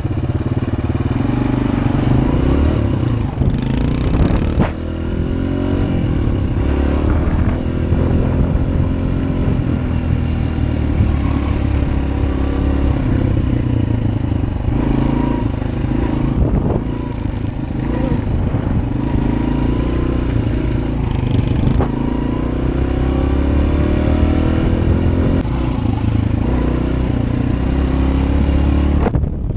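Dirt bike engine running under way, its pitch repeatedly rising as it accelerates, then dropping back as it shifts or eases off.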